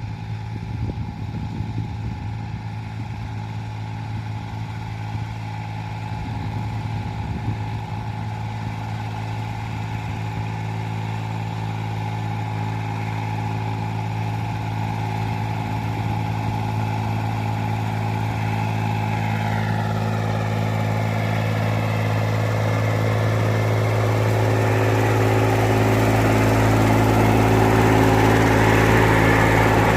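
An engine running at a steady speed without revving, growing gradually louder throughout, with a rougher hiss building in the second half.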